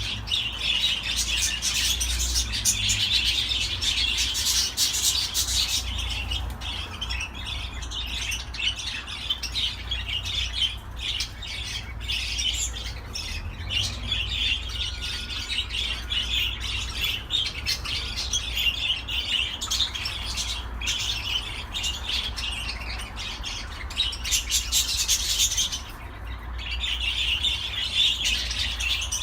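A flock of budgerigars chattering and warbling continuously in fast, busy chirps, with a short lull about 26 seconds in, over a low steady hum.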